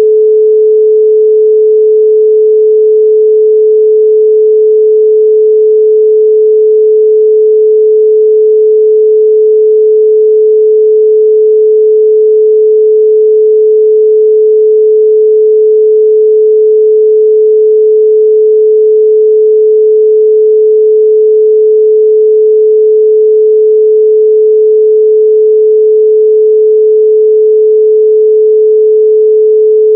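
A loud, steady 432 Hz pure sine tone: one unbroken pitch with no overtones.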